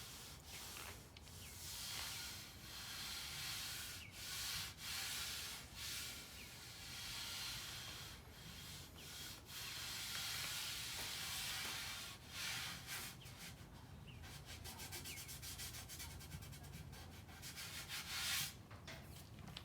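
Sandpaper on a sanding block being pushed by hand back and forth over body filler on a bus bumper, a dry scraping in repeated strokes that come quicker in the last few seconds.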